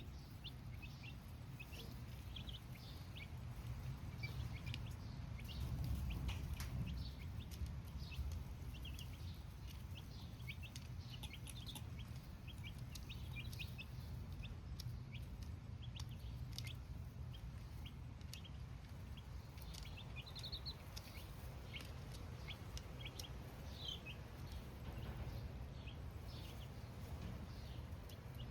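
A flock of baby chicks cheeping: many short, high peeps overlapping throughout, over a steady low rumble.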